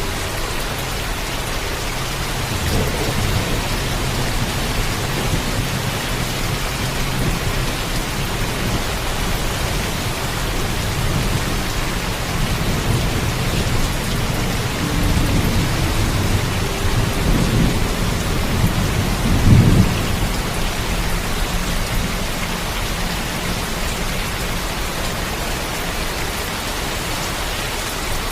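Steady heavy rain with low rolling thunder. The rumbling swells past the middle and peaks in one louder roll about two-thirds of the way in.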